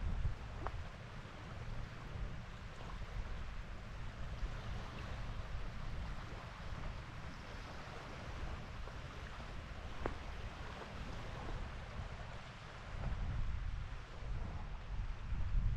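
Wind buffeting the microphone in uneven gusts, over a steady wash of small waves on a lake shore.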